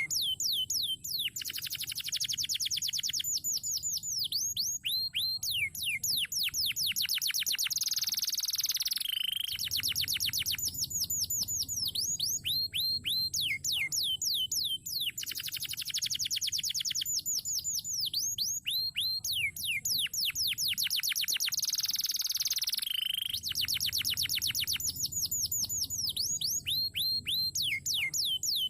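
Crested canary singing continuously: fast rolling trills alternating with runs of quick downward-sweeping notes. The same sequence of phrases repeats about every 14 seconds.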